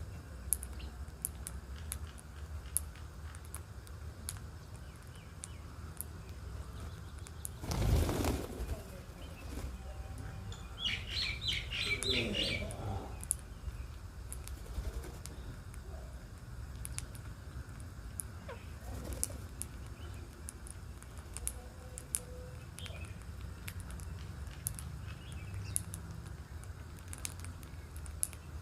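Birds chirping in a short flurry of high calls about eleven seconds in, after a brief loud rustle about eight seconds in, with faint scattered ticks throughout.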